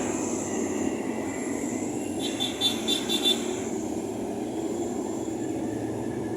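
Motor vehicles running in the street, a steady rumble throughout. About two seconds in, a rapid high-pitched pulsing sounds for about a second.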